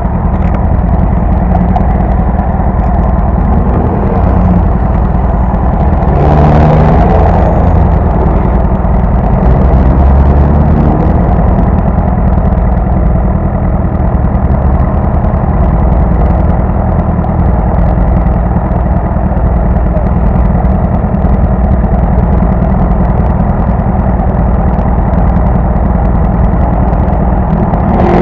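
Sport motorcycle engine running as the bike is ridden, its pitch rising and falling a few times in the first ten seconds and then holding steady.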